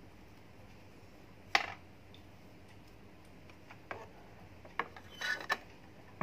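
A few irregular metallic clicks and clinks. A sharp click about a second and a half in is the loudest, and a short ringing clatter comes near the end.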